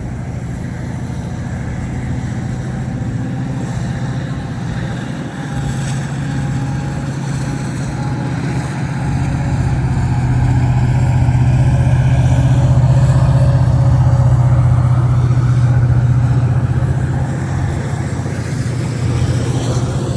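A train passing: a steady low engine hum that grows louder over the first half, is loudest a little past the middle, and eases off near the end.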